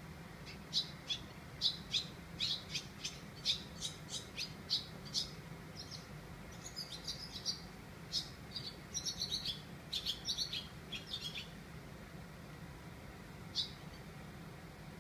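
Small birds chirping: a string of short, sharp, high chirps about two or three a second, then a denser twittering from about six to eleven seconds, and a single chirp near the end.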